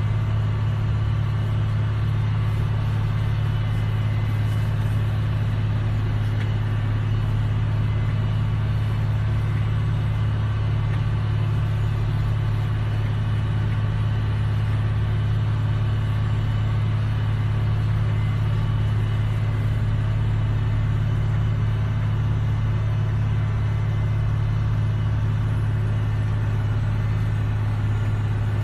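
Steady, unchanging low engine drone with faint higher whining tones above it, from machinery at an A380 pushback.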